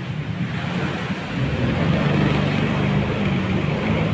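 Tour boat's engine running steadily as a low hum, with wind and sea noise over it.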